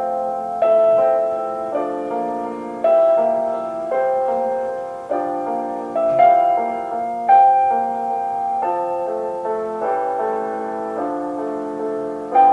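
Slow, gentle classical piano music: sustained chords that change about once a second.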